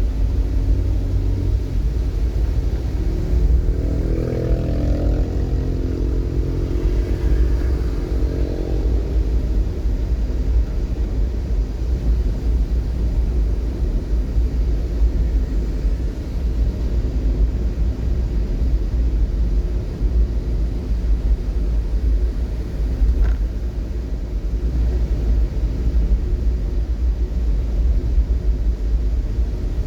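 Road vehicle traffic: a steady low rumble of engine and road noise. An engine note swells and falls away a few seconds in, like a vehicle revving or passing close by.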